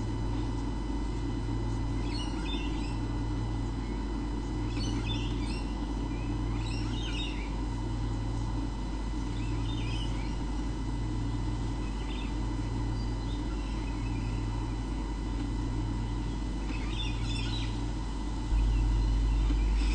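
Birds calling in short chirpy clusters every few seconds, over a steady electrical hum with a low drone that pulses about once a second.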